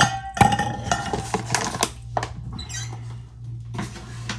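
Spoon clinking against a mug while stirring tea, with a ringing note from the cup in the first second or so, then scattered knocks and scrapes. A steady low hum runs underneath.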